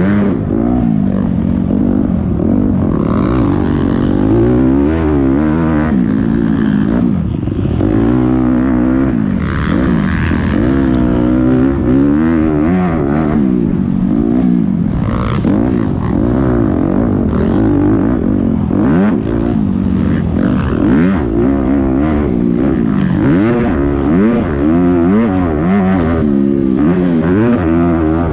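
Several motocross dirt bikes racing, their engines revving up and falling back over and over, with the overlapping pitches rising and dropping against each other.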